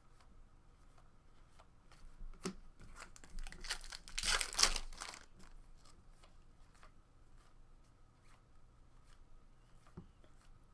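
Foil wrapper of a Topps baseball card pack being torn open and crinkled, loudest about four seconds in, with light clicks of cards being handled.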